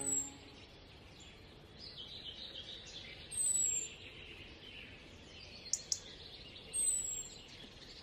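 Birds chirping in a faint outdoor ambience, with a thin, very high falling call repeated three times a few seconds apart and two quick sharp ticks a little before the last call.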